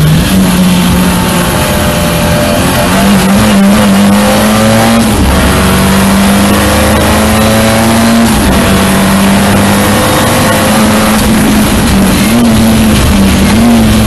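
Ford Escort RS Cosworth's turbocharged four-cylinder engine, heard on board at hard acceleration on a race track, its note climbing and dropping in steps as it changes up through the gears. Near the end the engine comes off the throttle and slows for a corner, with short blips in pitch, over steady road and wind noise.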